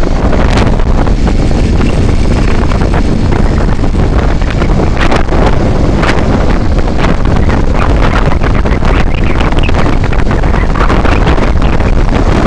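Loud wind buffeting the microphone of a moving vehicle over a steady low rumble, with a few sharp knocks.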